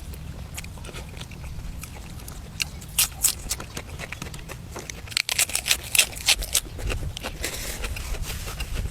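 Close-up chewing and lip-smacking of a person eating braised duck meat: irregular wet clicks and smacks over a steady low rumble.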